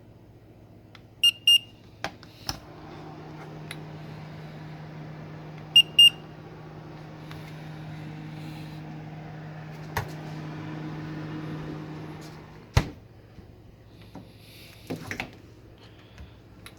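Whirlpool refrigerator's electronic control panel beeping twice, then twice again a few seconds later, followed by a steady low hum that runs about ten seconds and stops with a clunk.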